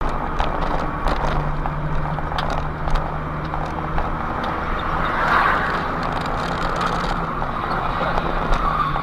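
Car on the move: steady engine hum and road noise, with scattered small clicks and knocks and a brief swell of louder noise about five seconds in.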